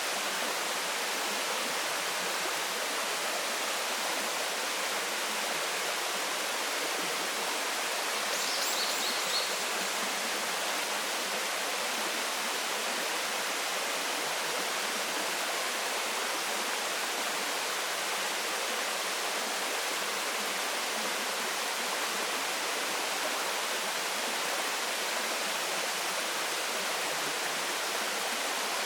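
Waterfall pouring steadily: an even, unbroken hiss of falling and splashing water with little deep rumble.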